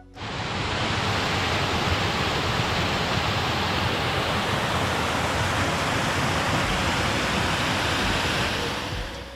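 Loud, steady rushing noise with no pitch or rhythm, cutting in suddenly and cutting off about nine seconds in.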